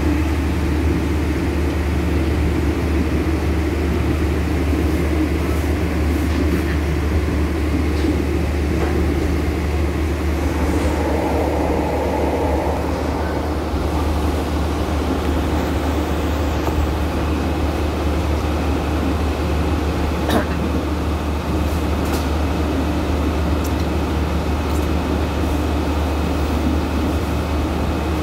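Steady low rumble and hum inside a Serayu passenger train carriage, with a few faint ticks and knocks.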